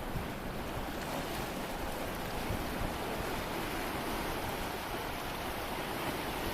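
Sea water washing steadily, a continuous even rush of surf.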